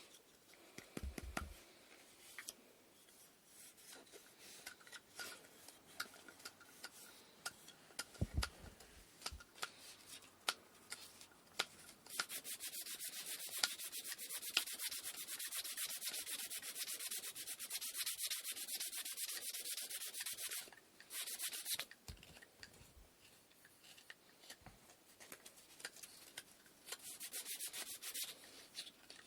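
Wooden inkle loom parts being hand-sanded with sandpaper. The first part holds handling clicks and a couple of dull knocks. Steady sanding starts about twelve seconds in and lasts roughly nine seconds, stops, then returns briefly near the end.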